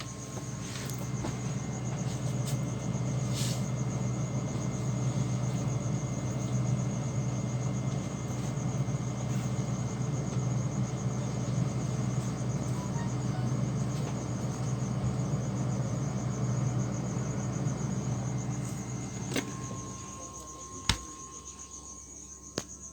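Refrigerator running with a steady low hum and a continuous high-pitched, fast-pulsing whistle. The hum cuts out about 19 seconds in, followed by a couple of sharp clicks, while the high whistle carries on.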